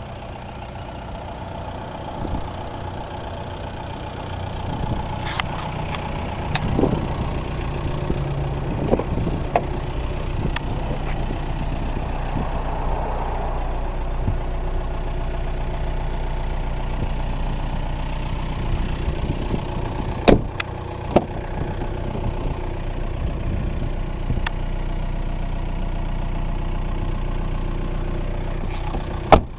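Volkswagen Jetta TDI's 1.9-litre four-cylinder turbo diesel idling steadily, getting louder over the first few seconds. A few sharp clicks or knocks stand out over it, the loudest about two-thirds of the way in and just before the end.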